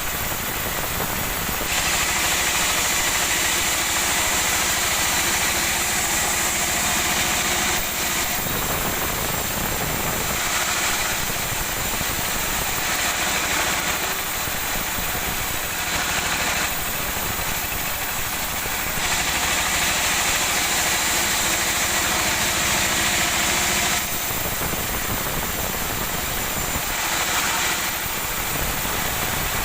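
Engine-driven sawmill running, with the saw cutting through a sonokeling (Indian rosewood) log. A hiss of cutting rises over the steady engine hum in stretches of several seconds; the longest come about two seconds in and again past the middle.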